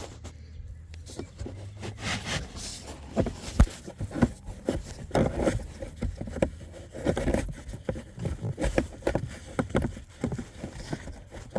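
Irregular scraping, rustling and small plastic knocks of a new cabin air filter being worked up into its housing under the dashboard.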